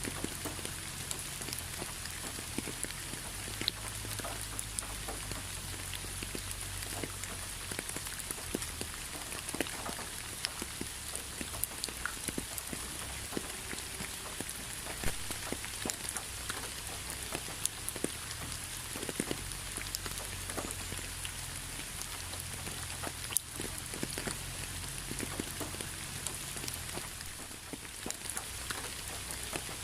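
Steady rain with many individual raindrops striking a surface, heard as an even hiss dotted with sharp, irregular drop ticks.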